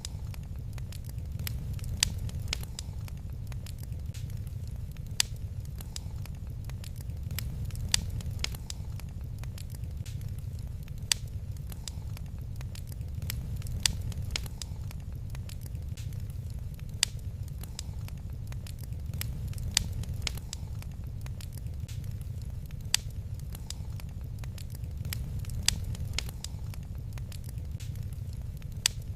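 Wood fire crackling in a fireplace: a steady low rumble with many sharp pops and snaps, the loudest about every three seconds.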